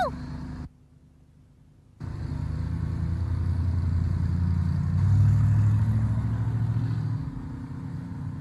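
A motor vehicle's engine running with a low rumble, starting about two seconds in after a brief hush, loudest about halfway through and then easing off.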